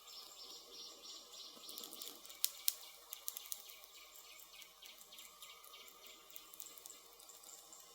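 Campfire wood crackling: scattered sharp pops and snaps, with two louder pops about two and a half seconds in.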